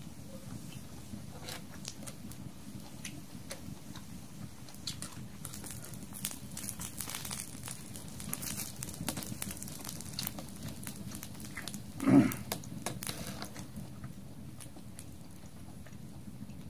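Pork belly sizzling on a stone slab over a wood fire, with scattered crackles and pops. A short low voice sound comes about twelve seconds in.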